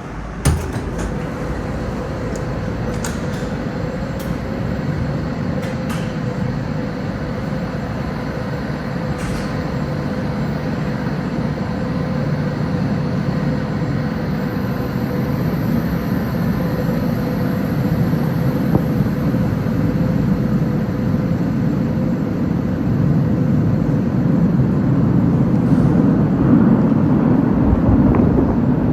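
Moscow metro train at a station: steady low rumble and hum with a few sharp clicks in the first several seconds, the rumble growing louder toward the end as the train gets moving.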